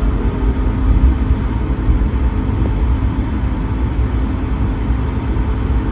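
Airbus A220-300 cabin while taxiing: a strong, uneven low rumble of the airframe rolling on the taxiway, over a steady engine and cabin hum.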